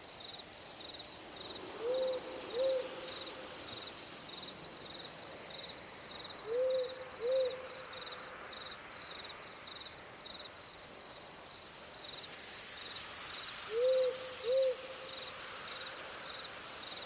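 An owl hooting in pairs of two short hoots, three times over, with a cricket chirping steadily at a high pitch underneath.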